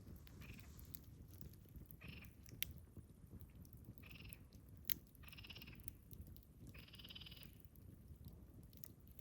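Wood campfire burning faintly, with a few sharp crackling pops, under about five short buzzy animal calls; the longest call comes about seven seconds in.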